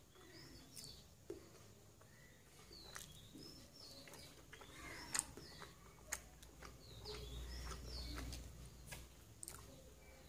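Small birds chirp in the background with short, curved calls repeated every second or so. Under them are soft sounds of eating by hand and a few sharp clicks, the loudest about five and six seconds in.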